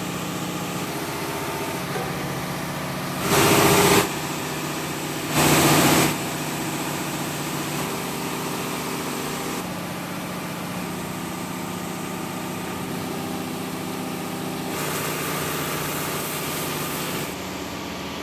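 Engine in a tugboat's engine room running at a steady idle, interrupted twice by a loud burst of noise lasting under a second, about three and five and a half seconds in.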